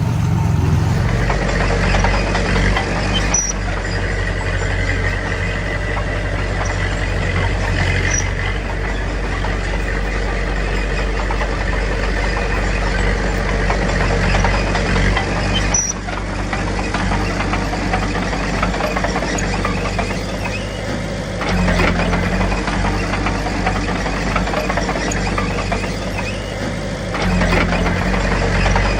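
Diesel engine of heavy earthmoving machinery running steadily under load. It grows louder and deeper about three-quarters of the way through and again near the end, as if working harder.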